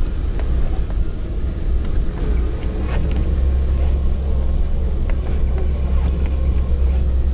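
UAZ Bukhanka van driving over a rutted, washboard-like snowy road: a steady low engine and road rumble, with a few short knocks and rattles from the body over the bumps.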